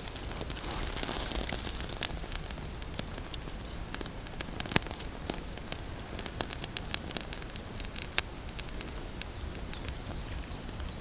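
Rain in a forest: scattered drops tick irregularly, a few landing louder than the rest.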